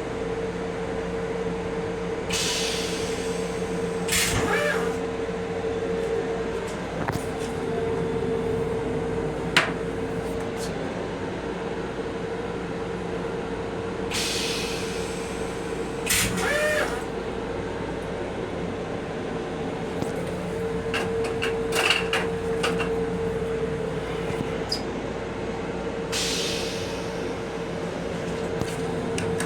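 Steady electrical hum inside a Metro-North M7 railcar, with three hisses of air about twelve seconds apart and a few sharp clicks in between.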